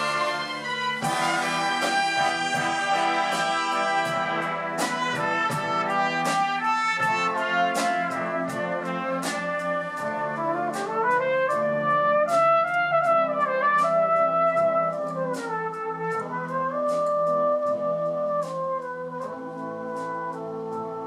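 Brass band music: trumpets and trombones playing a melody over regular percussion strikes.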